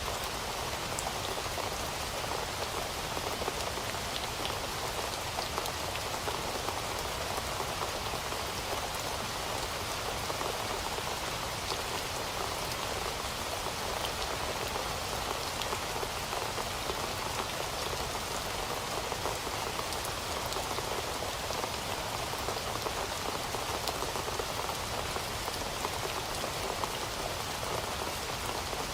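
Heavy rain falling steadily, a dense even hiss with countless individual drops pattering on a surface.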